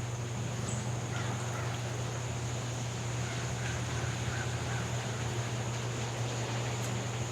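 River water flowing steadily, with faint bird calls in the background, a few short chirps about a second in and again a few seconds later.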